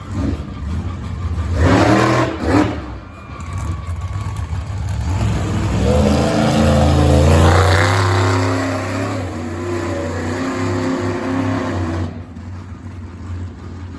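Monster truck engine running hard and revving up and down, with loud bursts about two seconds in.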